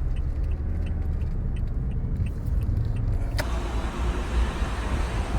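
Low, steady rumble of a car driving, heard from inside the cabin. About three and a half seconds in there is a sharp click, and a broader hiss joins the rumble.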